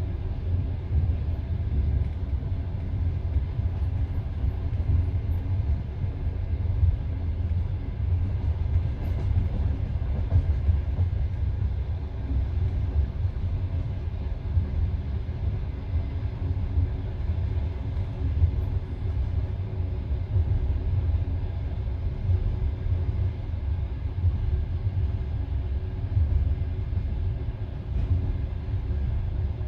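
Low, steady rumble of a passenger train carriage with a faint hum.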